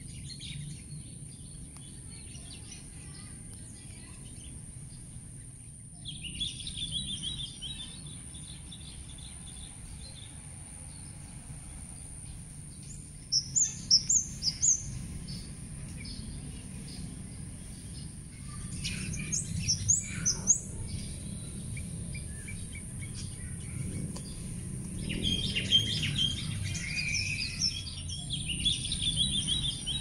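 Small birds chirping and calling in scattered bursts. The loudest is a quick run of sharp, high chirps about 13 seconds in, with another cluster about 20 seconds in. A steady faint high drone and a low background rumble run underneath.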